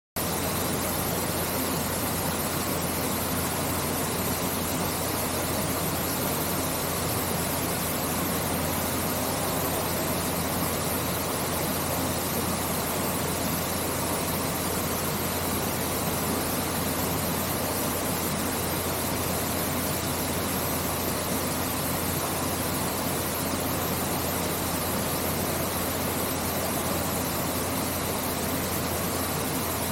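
Artificial-rock waterfall pouring into an indoor pool: a steady, unbroken rush of falling water with a low, even hum beneath it.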